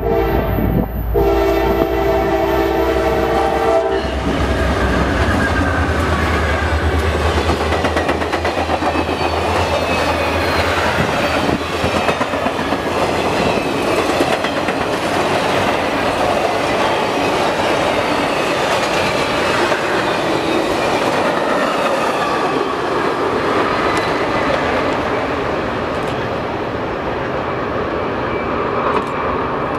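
CSX office car special passing close by: the diesel locomotive's horn sounds a chord that cuts off about three seconds in. Then the locomotive's engine runs by for several seconds, followed by the wheel noise of the passenger cars rolling over the rails, easing off near the end.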